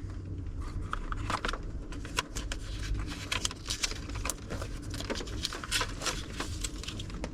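Rummaging through a box of stationery: irregular light clicks, taps and rustles as packs of sticky notes and cards are handled, over a low steady hum.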